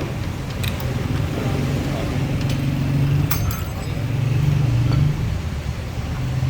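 A motor vehicle engine running steadily, with a few light metallic clinks.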